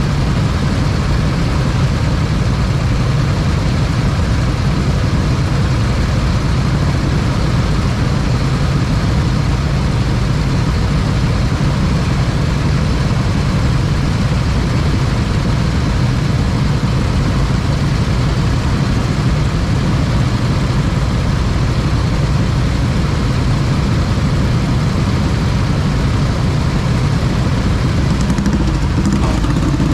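A motorcycle engine running steadily with a constant low drone; its note shifts slightly near the end.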